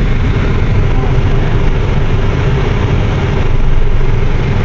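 Strong dust-storm wind buffeting a car, together with the car's running noise, heard from inside the cabin as a steady loud low rumble and hiss.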